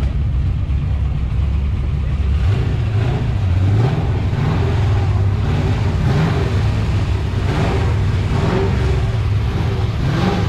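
A car engine running with a deep low rumble, revved up in short blips several times from a few seconds in to the end.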